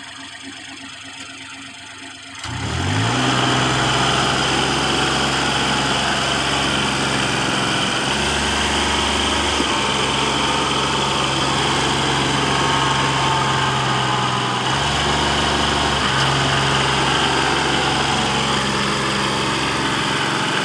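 A large engine comes in suddenly about two and a half seconds in, its pitch rising quickly, then runs steadily with its note shifting a few times.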